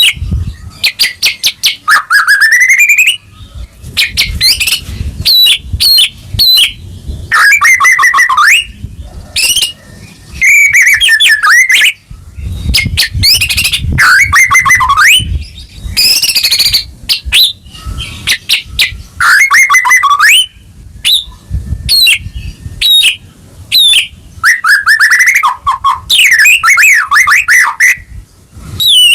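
White-rumped shama (Murai Batu) in full, loud song: a quick run of varied phrases, sliding whistles that fall in pitch mixed with fast rattling clicks, with only short pauses between phrases.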